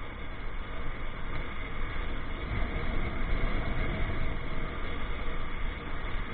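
Steady rushing noise of a motorcycle ride: wind on the microphone mixed with engine and road noise, with a deep, slightly wavering rumble.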